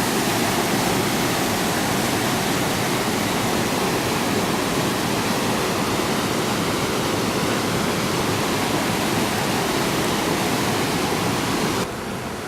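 Steady rushing of fast-flowing water, like a waterfall or mountain river. It drops in level and gets a little duller just before the end.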